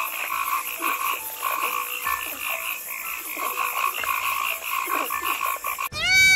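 A chorus of frogs croaking, many rapid pulsed calls overlapping. Near the end it cuts off and a loud animal call, rising and falling in pitch, begins.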